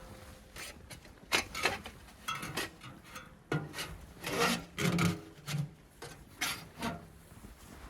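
An irregular series of short rasping, scraping strokes, about a dozen over several seconds, the kind made by rubbing or working something against wood.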